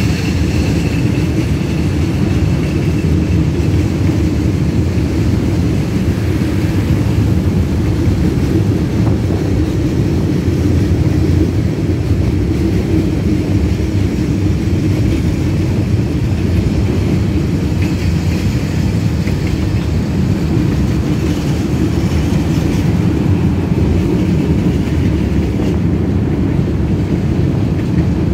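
Long freight train rolling past, its wagons making a steady low rumble on the rails.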